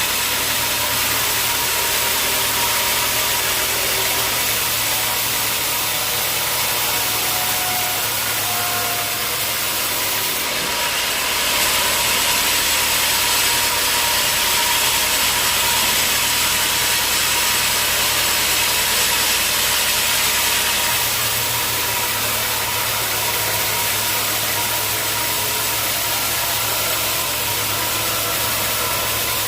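Sawmill running steadily: a motor drone under a constant hiss, with a brief brighter surge about ten seconds in.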